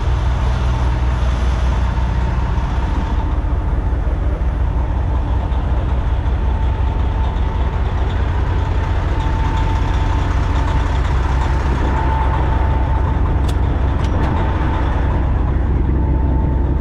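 Semi truck's diesel engine running steadily, heard from inside the cab.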